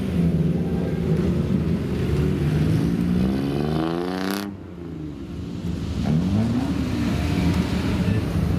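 Car engines running and being revved: one rev climbs steadily and cuts off sharply about four seconds in, then further revs rise and fall.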